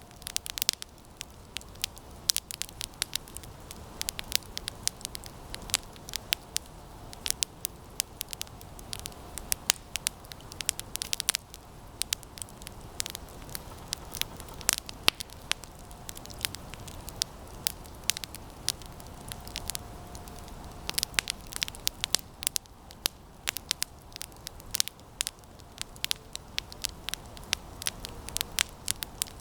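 Campfire of resinous pine branches burning, with constant irregular sharp crackles and pops over a soft steady hiss of flame. A faint thin whistle comes and goes.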